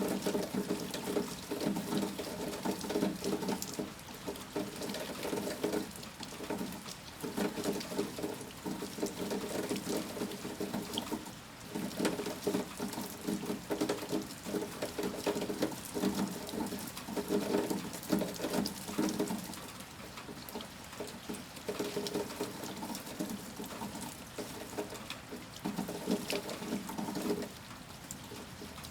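Heavy rain pattering steadily, with a louder, uneven splashing of running water that comes and goes and drops away near the end.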